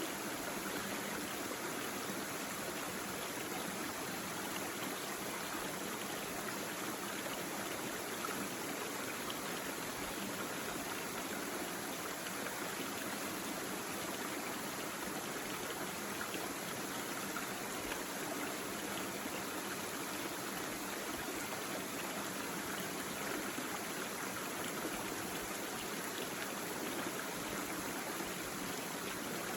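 Small stream babbling steadily over rocks, an even water noise with no pauses.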